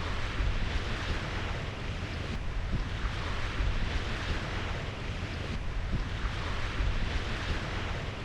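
Steady wind buffeting the microphone over the rush of sea water.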